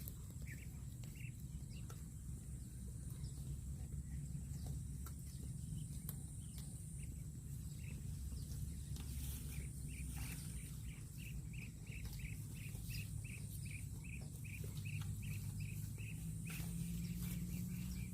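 Outdoor rural ambience: a steady low rumble with a faint steady high hiss. About halfway in, a run of short, high, evenly spaced chirps begins, between two and three a second, from a bird or insect.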